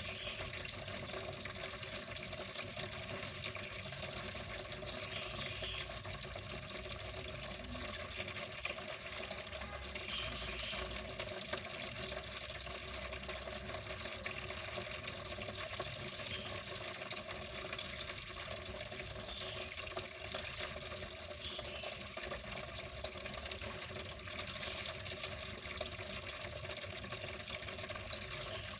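Water flowing steadily, an even, unbroken rushing.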